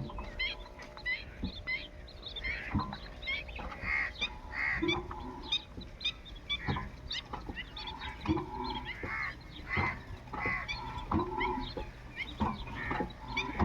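Geese honking in repeated short calls, mixed with scattered sharp knocks.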